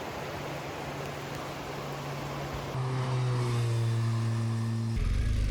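Motorcycle riding with rushing wind and road noise on the microphone. From about three seconds in, a steady engine note at constant pitch comes through as the bike slows to pull in.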